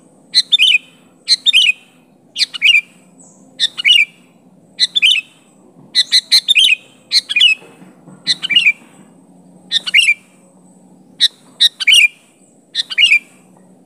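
Sooty-headed bulbul (kutilang) calling over and over: short, bright chirping phrases of a few quickly falling notes, about one a second.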